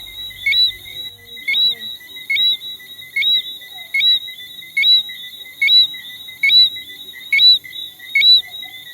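A small frog calling at close range: a loud, short, rising whistle repeated steadily about once a second, ten times in a row. It is the typical night call heard across Jamaica.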